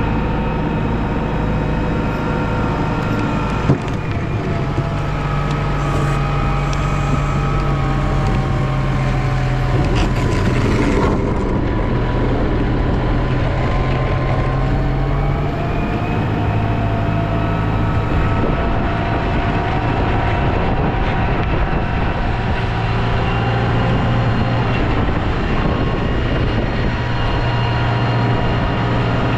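Snowplow's engine running steadily, its pitch shifting slightly and settling lower about halfway through, with a short knock about four seconds in.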